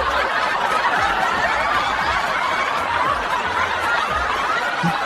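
A crowd laughing, many voices overlapping in a steady, unbroken wash of laughter.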